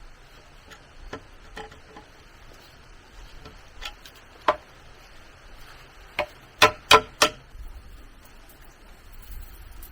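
Scattered sharp knocks and taps, with a quick run of four louder knocks about six to seven seconds in.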